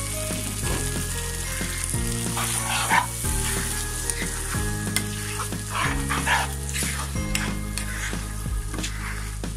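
Beef brain and onion masala sizzling in oil in a nonstick pan while a wooden spatula stirs and scrapes through it. Background music with a changing bass line plays underneath.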